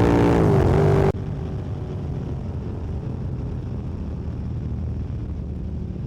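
Yamaha MT-07's parallel-twin engine pulling at high revs, its pitch falling as the throttle comes off. About a second in it cuts off abruptly to a quieter, steady low rumble of the bike cruising.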